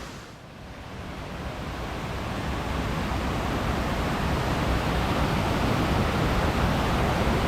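Steady rush of a waterfall, growing louder over the first two seconds and then holding steady.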